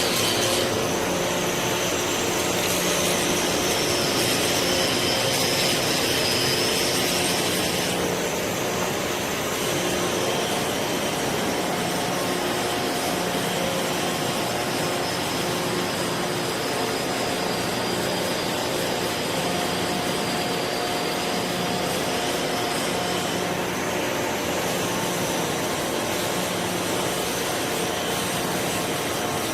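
Steady industrial machine noise with a faint high whine and a low hum, dropping slightly in level about eight seconds in.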